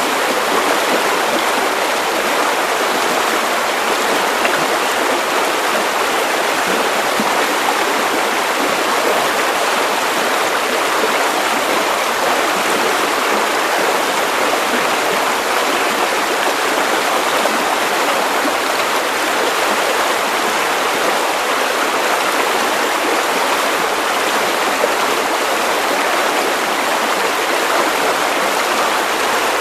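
Steady white-noise hiss, even and unchanging throughout, with little deep rumble.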